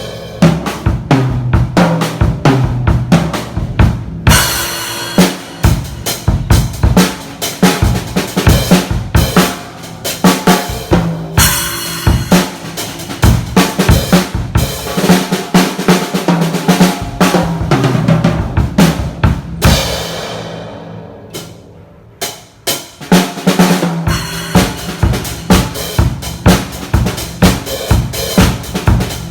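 Mapex Tornado acoustic drum kit played in a steady groove with fills: kick, snare, toms and hi-hat, with crash cymbal hits about 4, 11 and 20 seconds in. After the crash near 20 seconds the cymbal rings out and the drumming briefly stops, then starts again.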